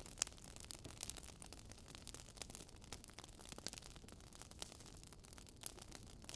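Wood fire in a fireplace crackling: irregular small pops and clicks over a faint steady hiss, with one sharper pop about a quarter second in.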